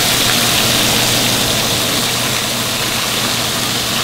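Skin-on channel catfish fillets frying in very hot bear fat: a loud, steady sizzle.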